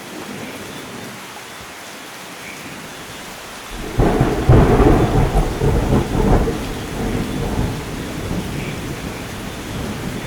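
Steady light rain, then about four seconds in a sudden, loud clap of thunder that rolls and rumbles for a few seconds before slowly fading back into the rain. A few faint bird chirps sound over the rain.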